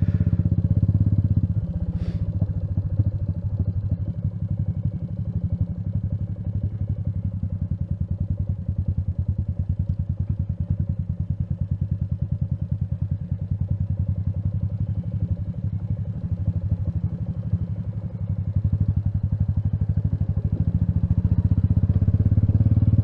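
Royal Enfield Meteor 350's single-cylinder engine running at low revs with an even, rapid pulse. It gets louder near the end.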